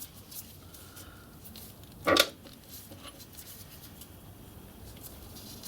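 Quiet workshop room tone with faint handling noises and one brief, louder handling noise about two seconds in.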